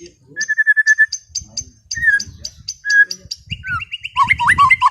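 White-rumped shama (murai batu) singing a varied song: rapid high trills and chips, short clear whistled notes, and from about three and a half seconds in a fast run of ticking notes over lower slurred whistles.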